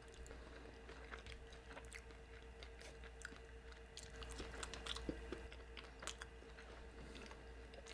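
Faint close-up chewing of food, with scattered small wet clicks of the mouth, over a faint steady hum.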